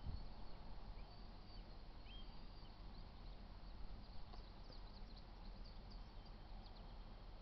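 Quiet outdoor ambience: a low steady rumble with faint, short high bird chirps scattered through the middle.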